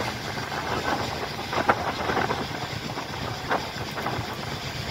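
Passenger train running at speed, heard from on board: a steady rushing rumble with a couple of sharp clicks from the wheels on the track.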